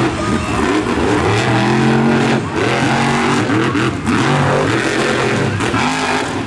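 Monster truck engines revving hard, their pitch rising and falling again and again as the throttle is worked, with more than one engine heard at once.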